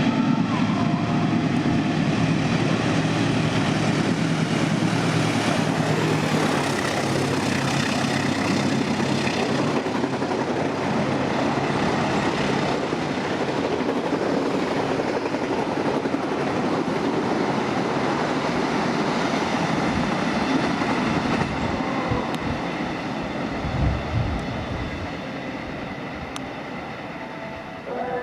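Freight train passing: a steady rolling rumble and rattle of wagons on the rails, with a low engine note at first. Near the end there is a brief low thump, and the sound slowly fades.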